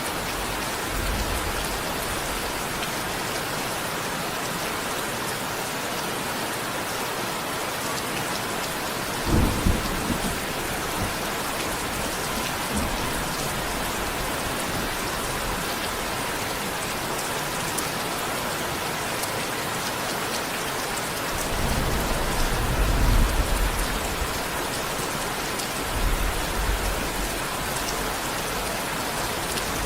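Steady heavy rain falling. Low rumbles of thunder break through it: a short one about a third of the way in and a longer, louder roll about two-thirds of the way through.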